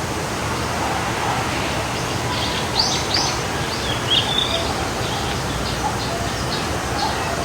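Forest stream flowing steadily, with small birds chirping over it. A few quick, sharp chirps come about three to four and a half seconds in.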